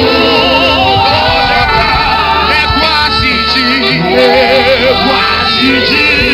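Live gospel worship music: singing with vibrato over a band with a steady bass.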